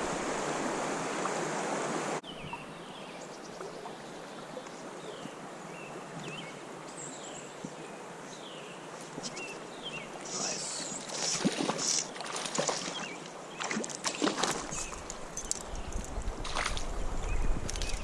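Flowing creek water that cuts off abruptly about two seconds in, leaving quieter running water with a few short, high, falling chirps. From about ten seconds on come irregular splashes and sharp handling clicks, with wind rumbling on the microphone near the end.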